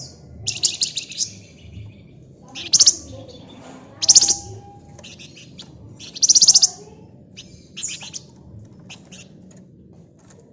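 Flamboyan (wergan jawa) songbird singing in rapid, buzzy high-pitched trills, about seven short bursts at uneven intervals, the loudest around three, four and six seconds in.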